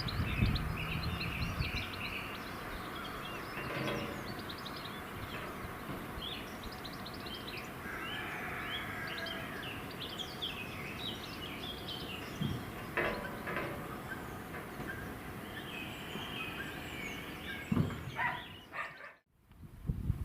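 Small birds singing, many short high chirps and trills, over a steady low background noise; the sound cuts out briefly near the end.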